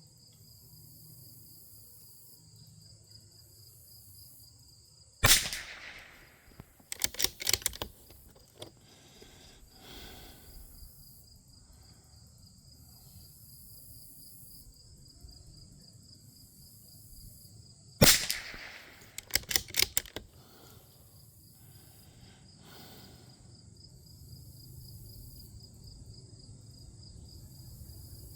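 Two .22 LR shots from a Bergara B14R bolt-action rimfire rifle, about 13 seconds apart. Each shot is followed a second or two later by a quick run of metallic clicks as the bolt is worked to eject and chamber. A steady high insect chirring runs underneath.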